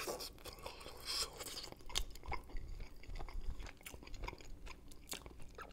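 A person biting into and chewing pork rib meat, with many small irregular wet mouth clicks.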